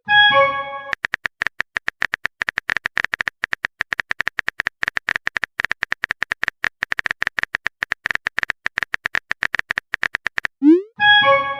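Rapid typing clicks from a texting-story sound effect, several per second throughout. A message-notification sound, a short rising whoosh and a chime of several notes, comes right at the start and again near the end.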